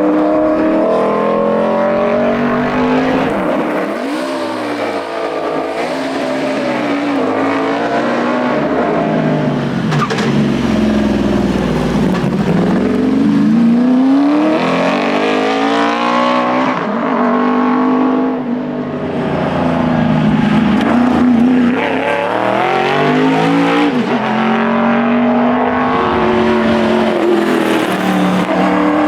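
1980 Ford Falcon XD Phase 5's engine under hard competition driving, its pitch climbing through the revs and dropping back again and again as it shifts gears, easing off briefly a couple of times.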